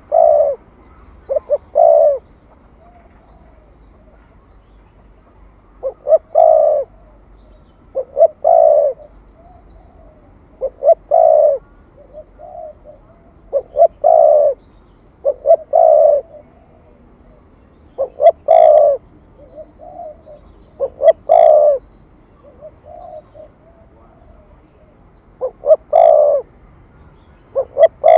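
Spotted dove cooing in the 'thổ thúc gù' style: loud short coo notes repeated in phrases every two to three seconds, with softer notes in between.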